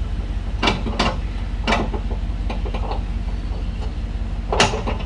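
Several sharp metal clanks, the loudest near the end, as the stabilizing bars of a camper's trailer hitch are worked off. Under them runs a steady low hum of an idling engine.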